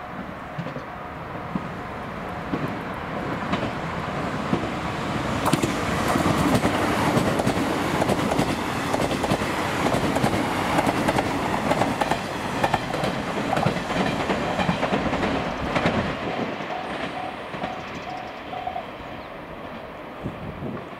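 A six-car JNR 381 series electric limited express passes close by, wheels clattering over the rail joints. The sound builds over the first few seconds, is loudest through the middle, then fades as the train draws away.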